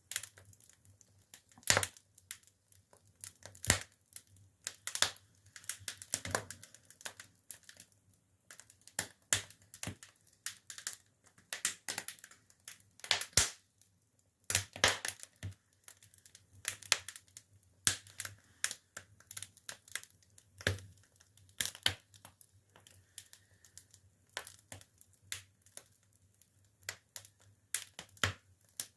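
Larch firewood burning in a Korean ondol firebox, crackling with irregular sharp pops, a few of them loud, over a faint steady low hum.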